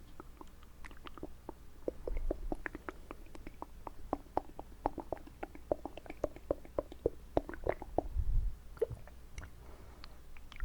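Close-miked mouth sounds of water held and swished in the mouth: a quick run of small wet clicks and squelches, several a second, thickest through the middle, with a soft low thud about two seconds in and another near eight seconds.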